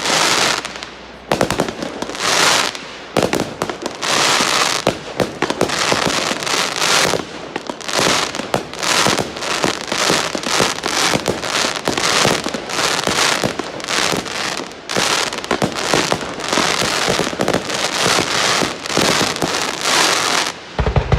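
Fireworks going off in a dense, unbroken run of bangs and crackling, many bursts a second, stopping abruptly near the end.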